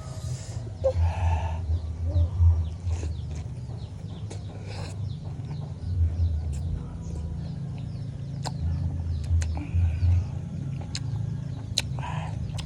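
Close-up chewing of crunchy raw fruit, with repeated low thuds of the jaw working and sharp little crunching clicks.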